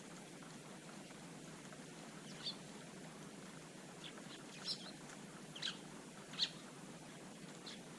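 Garden birds giving a handful of short, sharp chirps, spaced irregularly over a faint steady hiss, the loudest chirp near the end.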